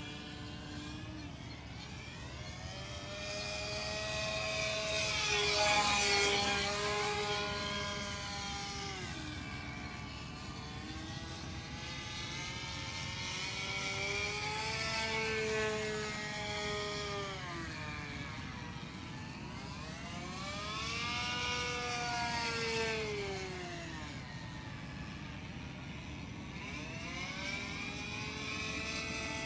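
A model airplane's OS 25FX two-stroke glow engine runs at high throttle in flight, making three passes: each one swells in loudness and bends up in pitch as the plane comes in, then drops as it goes past. The first pass is the loudest. The engine has rust in its internal bearings and can hardly be throttled back, and the owner says it sounds wrong.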